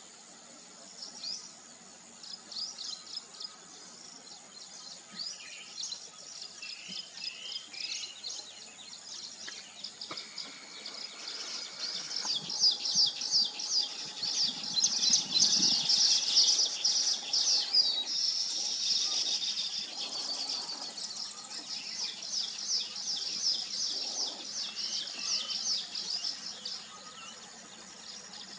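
A colony of weaver birds chattering, with many rapid, high chirps overlapping. The chorus swells to its loudest and densest in the middle, then thins out again.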